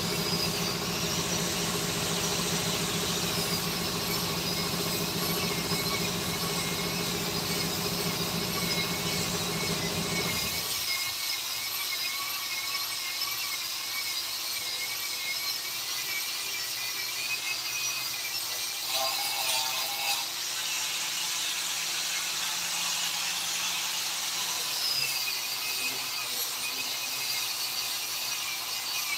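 A high-pitched power tool whining as it works wood, its pitch wavering with the load. A lower steady hum underneath stops about ten seconds in.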